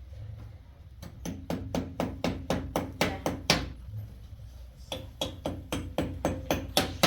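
A rapid run of sharp knocks, about four a second, each with a short low ring, starting about a second in and pausing briefly near the middle.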